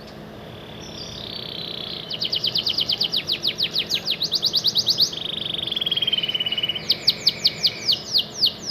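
Canary singing one long unbroken song. It opens with a soft whistle, then moves into fast downward-sweeping notes at about six a second. About five seconds in comes a rapid rolling trill, and the swept notes return near the end.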